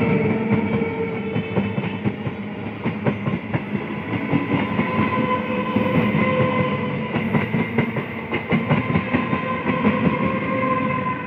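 EMU local train coaches passing close by at speed, wheels clattering over the rail joints, with a steady whine running underneath.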